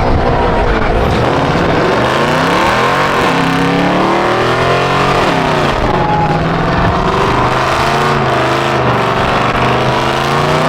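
A car engine revving hard, its pitch climbing and dropping several times, holding steady for a few seconds in the middle, then climbing again near the end.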